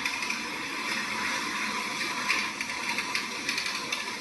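Storm wind noise with rapid, irregular rattling and clicking, as of debris and loose objects being shaken in a tornado's wind.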